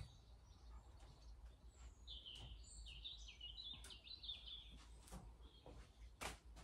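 Near quiet, with a small bird chirping faintly in a quick run of short high notes from about two seconds in. A few soft clicks and rustles come from tomato vines being handled as fruit is picked.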